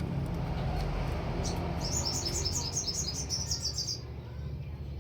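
A small songbird singing a rapid trill of high repeated notes, starting about a second and a half in and stopping after about four seconds, over a steady low hum.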